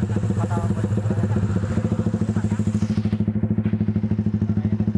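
Yamaha Jupiter MX King 150's single-cylinder four-stroke engine idling steadily through an aftermarket full stainless-steel exhaust, with an even, deep pulsing exhaust note.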